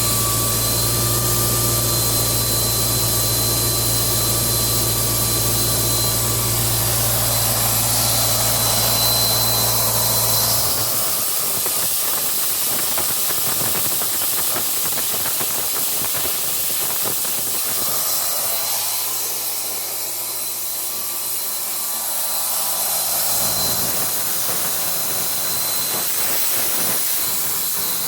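Ingersoll Rand P185 portable diesel air compressor running with a loud, steady hiss of air. The low engine hum underneath fades out about ten seconds in, comes back briefly later on, and the hiss carries on throughout.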